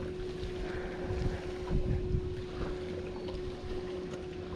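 Wind rumbling on the microphone out on a boat, with a steady hum running underneath.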